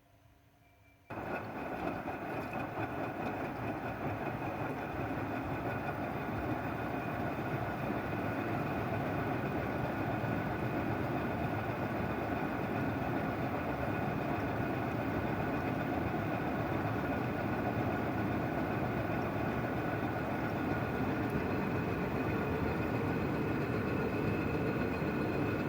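Washing machine running: a steady mechanical whir with a faint motor whine, starting abruptly about a second in.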